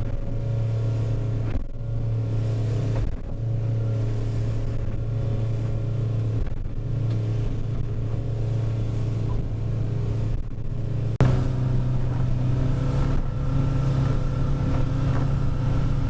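Small boat's engine running steadily under way, a constant drone with even overtones. About eleven seconds in there is a sharp click, after which the engine runs slightly louder and a little higher in pitch.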